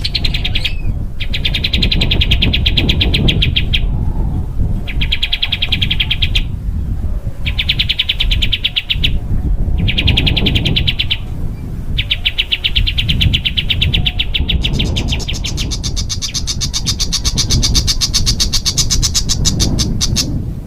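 Small songbird singing a string of rapid, dense trills, each lasting a second or two with short pauses between, then a longer, higher-pitched trill near the end: the fast 'tembakan' phrases played as training song for competition birds. A steady low rumble runs underneath.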